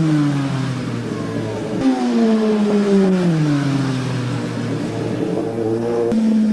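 Racing motorcycle engine running hard, its pitch falling steadily. The sound changes abruptly twice, about two seconds in and again near the end, where the falling pitch restarts and then holds steady.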